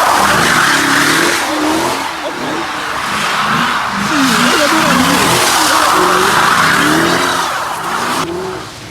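A car doing donuts, its tyres screeching continuously while the engine revs up and down; the screech stops near the end.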